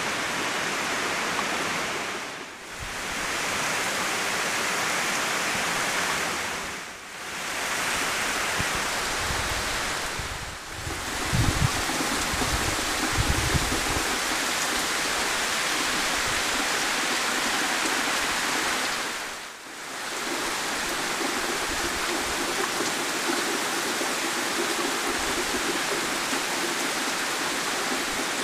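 Heavy rain pouring steadily on trees and leaves, a dense, even hiss that fades out and back in four times where one clip gives way to the next. Low rumbles come through about eleven to fourteen seconds in.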